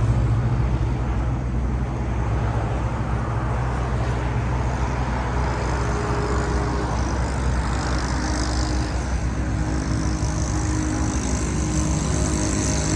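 A motor running steadily, a constant low hum under a noisy wash, with a few higher steady tones joining near the end.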